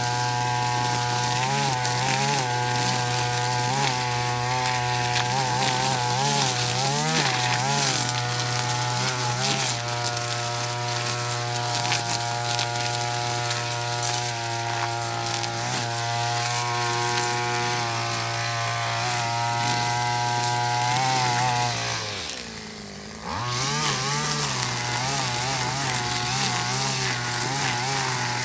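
Backpack brush cutter with a flexible drive shaft, running at high speed on nylon trimmer line, its engine pitch wavering up and down as it works. Near the end the throttle drops briefly toward idle, then it revs back up.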